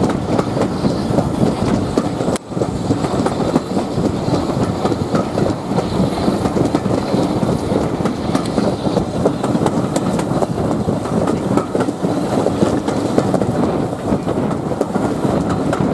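Carriages of a steam-hauled train running along the line, heard at an open window: a steady rumble of wheels on rail, with a brief dip in the sound about two and a half seconds in.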